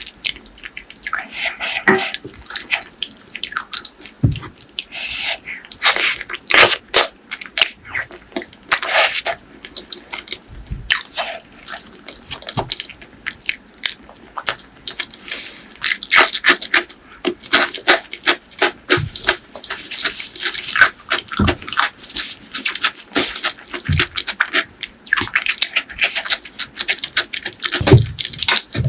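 Close-miked chewing and biting of spicy pork leg curry with rice: a dense, uneven run of moist clicks, smacks and crunches.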